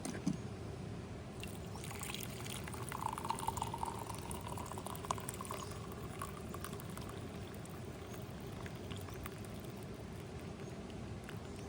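Liquid poured into a cup from about two seconds in, its ringing pitch rising slightly as the cup fills, with small clinks and drips.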